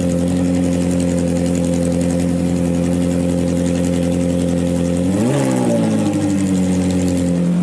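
Car engine idling steadily, given one quick rev about five seconds in that rises and falls sharply before it settles back to a steady idle.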